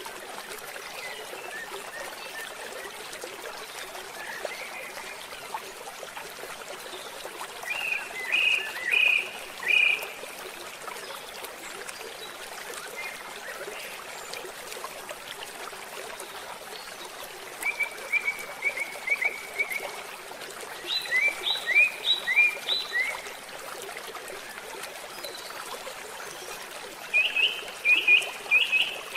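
A small songbird calling in short runs of quick high chirps every several seconds, over the steady rush of running water.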